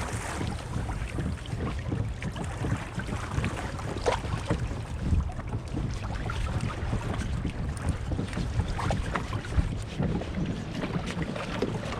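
Wind buffeting the microphone over water around a kayak, a steady low rumble, with scattered light knocks and clicks.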